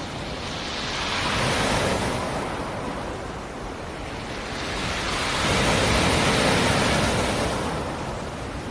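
Black Sea surf: waves breaking and washing up the shore in two swells, one about two seconds in and a larger one around six seconds in, each rising and then falling back.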